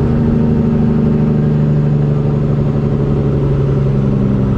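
Semi truck's engine running loud and steady at a constant pitch.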